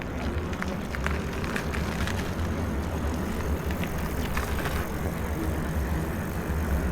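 Steady rumble of wind on the microphone and a bicycle rolling along while being ridden, with a few light clicks and rattles from the bike.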